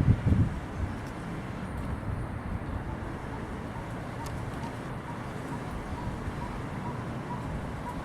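Steady outdoor city traffic hum, with wind buffeting the microphone for a moment near the start. A faint row of evenly spaced short pips sounds in the background during the second half.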